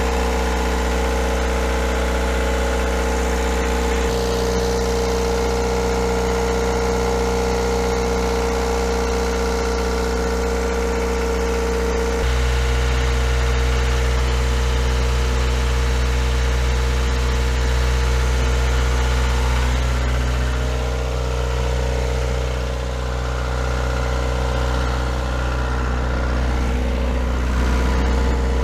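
Perkins 4.108 four-cylinder marine diesel engine running steadily, its tone shifting about four seconds and again about twelve seconds in.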